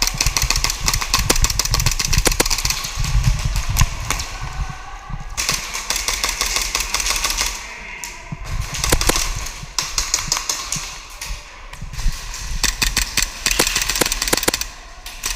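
Airsoft gas blowback pistols firing in quick strings of sharp cracks, many shots a second, easing off briefly about eight and eleven seconds in.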